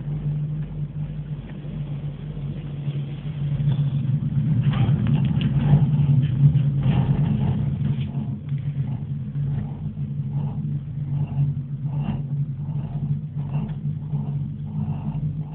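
Steady low hum and rumble of a cable car cabin riding the line, swelling for a few seconds near the middle, with faint light rattles later on.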